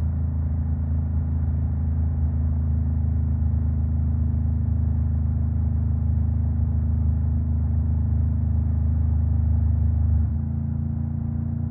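Honda Rebel 500 parallel-twin engine through a Vance and Hines exhaust, running under way with a steady note that builds slightly, then drops suddenly about ten seconds in.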